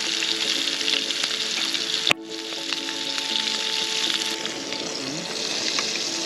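Rump steak sizzling as it fries in a hot pan, a steady hiss with a sharp click and a brief dip about two seconds in.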